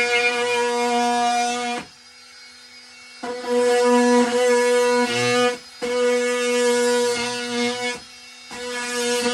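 Corded power tool cutting into a wall: a steady buzzing hum that runs in spells, dropping away for about a second near two seconds in, briefly near six seconds, and again near eight seconds.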